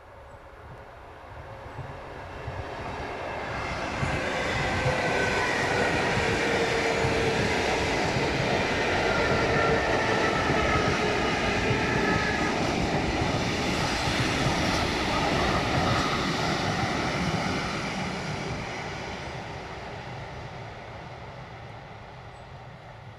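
ED4M suburban electric multiple unit passing on the track: its rumble builds up, stays loud for about twelve seconds while the cars go by, and fades away as it recedes, with a faint whine that falls slightly in pitch through the loud part.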